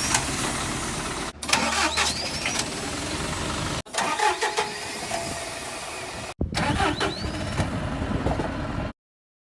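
Mid-size bus diesel engine starting up and settling toward idle, heard as several short takes cut together with abrupt breaks every two to three seconds.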